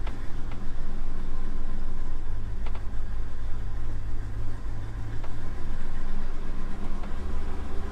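1957 Chevrolet Bel Air's engine running steadily at low speed as the car drives, a low drone heard from inside the cabin, with a few light clicks now and then.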